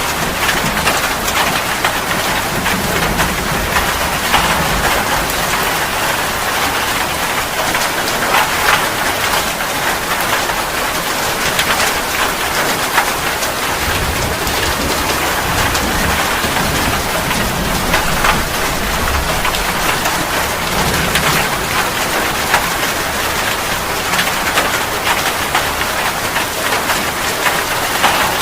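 Steady heavy rain falling on a surface, a dense even patter, with soft low rumbles swelling now and then.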